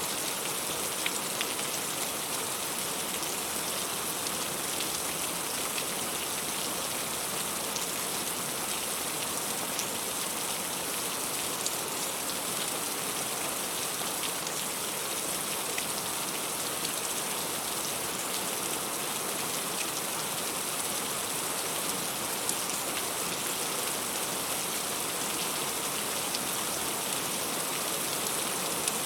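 Heavy rain falling steadily, with scattered sharper ticks of individual drops landing close by.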